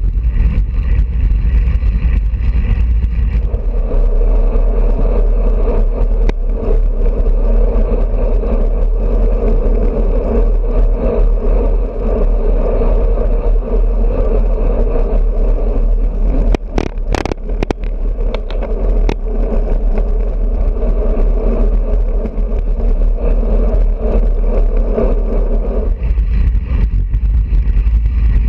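Wind buffeting a bicycle-mounted GoPro's microphone along with steady road noise while riding, a constant rushing rumble. A short run of sharp clicks and rattles comes about two thirds of the way in.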